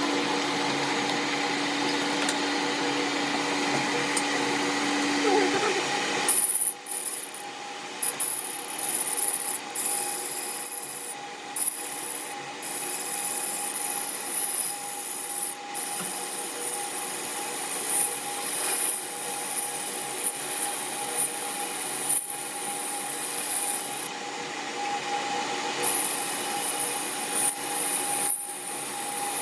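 Metalworking shop tools at work. A machine hums steadily, then from about six seconds in there is rasping, rubbing tool-on-metal work in irregular strokes over a continuing motor hum.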